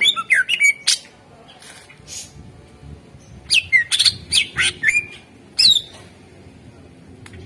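Cucak ijo (green leafbird) singing: rapid runs of loud, sharp whistles and chirps with quick upward and downward slurs, one burst at the start and another from about halfway, with softer notes in the gap between.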